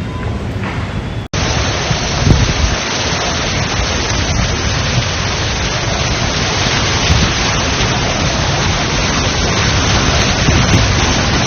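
A steady, loud rush of heavy storm rain, starting abruptly about a second in, with a deeper swell shortly after.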